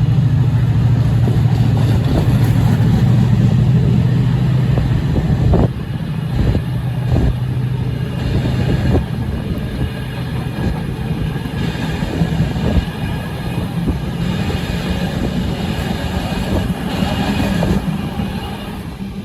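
Class 68 diesel locomotive's engine running with a steady low drone as it passes, cutting out about six seconds in. Train wagons then roll by, with irregular wheel clicks over the rail joints.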